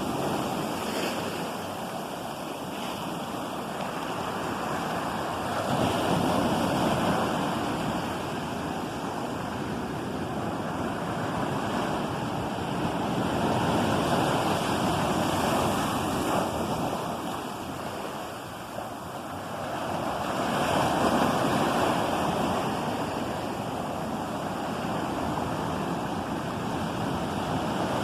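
Ocean waves breaking and washing onto shore in a steady surf, swelling and easing about every six to eight seconds, with some wind on the microphone.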